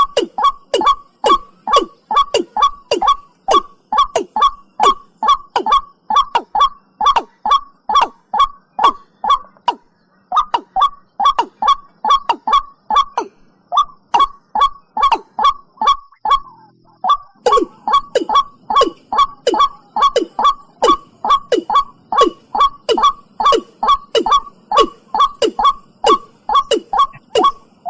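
Watercock calling a fast run of short, hooked notes, about three a second, with brief breaks about ten seconds in and again near seventeen seconds.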